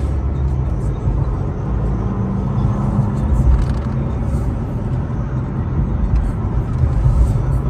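A car driving at a steady pace, heard from inside the cabin: a continuous low drone of engine and road noise.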